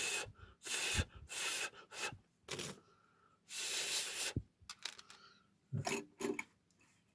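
A run of uneven rubbing or rasping strokes on a small workpiece, each lasting up to about a second, the longest a little past halfway, followed by a few light taps and clicks near the end.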